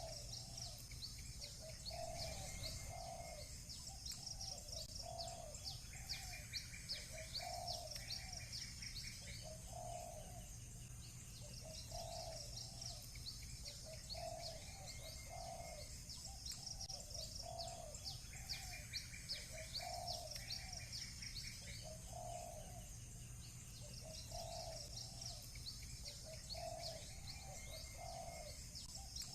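Village birdsong: doves cooing again and again in short low coos, over a busy run of high chirps from small birds. A quick buzzy trill comes in twice. A steady low hum runs underneath.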